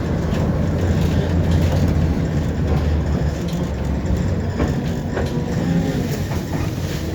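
Tram running on its rails, heard from inside the passenger car: a steady low rumble of the wheels and running gear, with a few clicks and knocks from the track in the middle.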